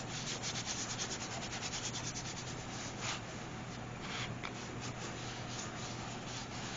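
Fingers rubbing quickly back and forth over paper and cardboard, pressing a glued-on piece down so it sticks, in quick even strokes several a second.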